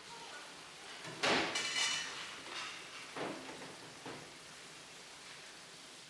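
Metal kitchenware clattering: a loud ringing clank about a second in, then a few softer knocks, then only a low background.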